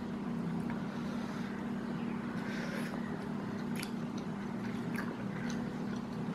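A person chewing a mouthful of rice, with a few small sharp clicks from the mouth or spoon, over a steady low hum.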